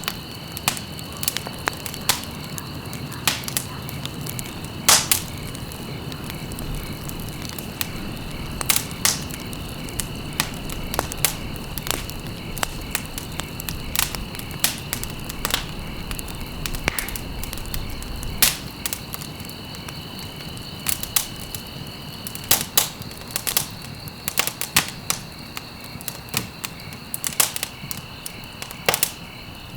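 Campfire crackling: sharp, irregular pops and snaps over a low, steady burning noise, with a steady high trill of crickets behind it.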